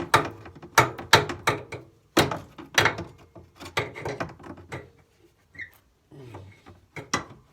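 Hammer blows on a nut threaded onto a stuck frame-to-transaxle bolt of a garden tractor, knocking the bolt loose: a quick run of about a dozen sharp metallic taps over the first five seconds, then a brief scrape and one more tap near the end.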